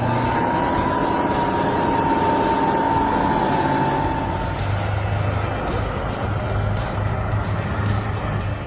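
A heavy vehicle's engine running under load, with a steady whine that sags slightly in pitch and fades out about halfway through.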